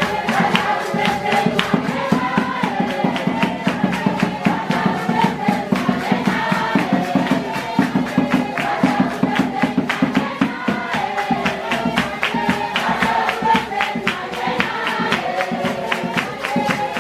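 A group of voices singing together in chorus over a steady, quick beat of sharp percussive strokes.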